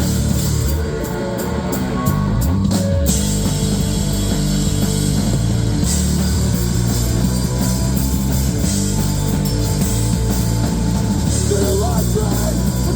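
Live rock band playing an instrumental stretch of a song: drum kit and electric guitar, loud and full, with the band stopping and hitting together in short stabs about one to three seconds in.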